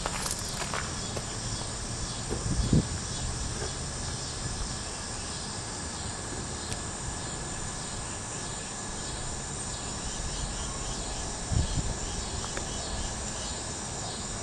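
Insects chirping steadily in a rhythmic, evenly pulsing trill, with two dull thumps about two and a half and eleven and a half seconds in.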